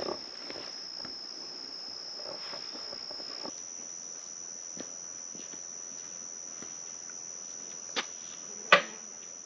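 Insects making a steady high-pitched trill that steps up slightly in pitch a few seconds in. Near the end come two sharp knocks, the second louder.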